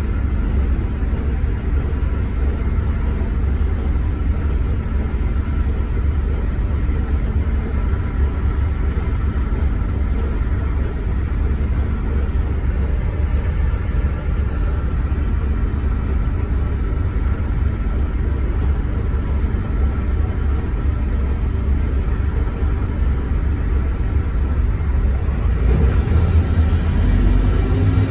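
Scania K230UB bus's five-cylinder diesel engine running steadily with a low rumble, the engine note rising near the end as the bus accelerates.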